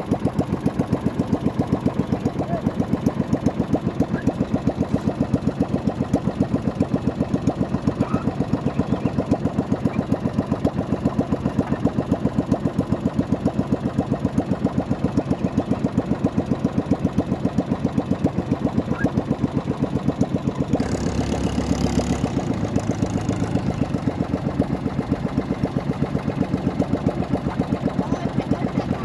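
Small boat motor running steadily with an even, rapid pulse. A brief rush of noise comes in about twenty-one seconds in.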